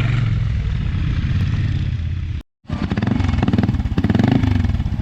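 Motorcycle engines running at low speed, with a brief cut to silence about halfway; after it an engine runs with rapid, even firing pulses and a wavering pitch.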